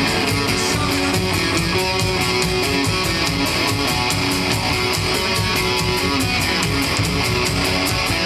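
Live rock band playing an instrumental passage: strummed electric guitar over a steady, driving beat.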